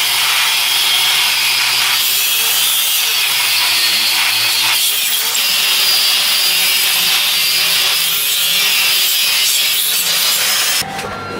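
A power tool making a loud, steady rasping noise, with a faint low tone swaying up and down every couple of seconds; it cuts off abruptly near the end.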